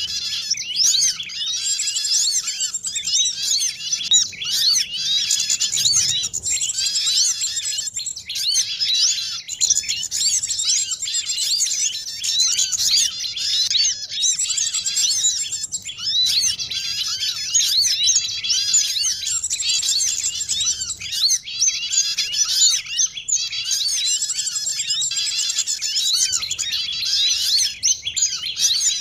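Bird-trapping lure recording: a dense chorus of many small songbirds chirping and twittering at once, high-pitched and unbroken.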